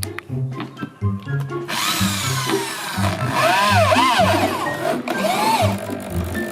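Bass-heavy music played loud through a home-built loudspeaker cabinet, with a rhythmic bass line. From about two seconds in, a hissing layer with swooping, arching tones joins the bass.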